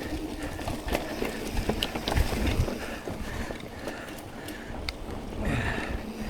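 Mountain bike rolling along a dirt trail: a low rumble from the tyres with irregular clicks and knocks as the bike rattles over bumps.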